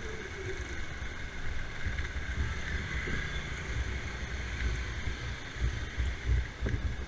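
Motorcycle engine running at low speed, a steady low rumble mixed with wind buffeting the microphone.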